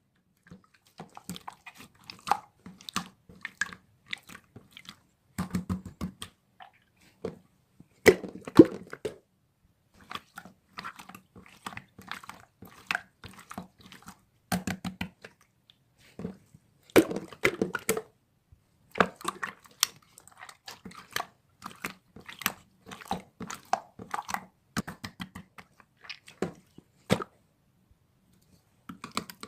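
Typing on a computer keyboard: bursts of quick key clicks with short pauses, some heavier strokes among them.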